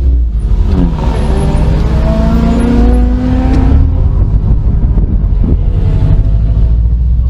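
Car engine under hard driving: the revs drop briefly about half a second in, then climb under acceleration for about three seconds. They ease off around the middle and build again near the end, over a deep low rumble.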